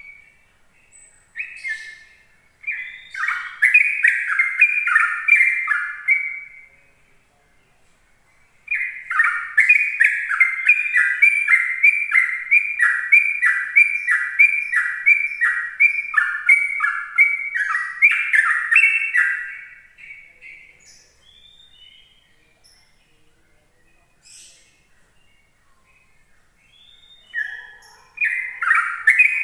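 Yellow-vented bulbul (trucukan) singing its rapid, continuous 'ropel' song of quick, bubbling, chirping notes. A short run about three seconds in is followed by a long run of about eleven seconds from around nine seconds, and the bird starts again near the end.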